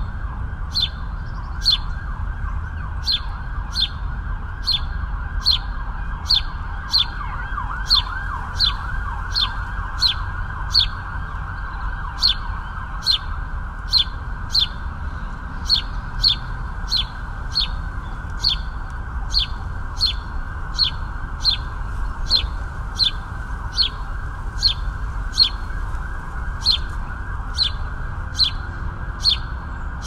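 A bird in a city park repeating one short, sharp, high chirp over and over, a little more than once a second, against a steady low urban rumble.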